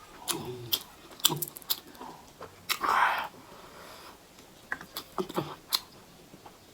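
Close-miked eating sounds: a person chewing, with scattered sharp wet mouth clicks and one louder noisy burst about three seconds in.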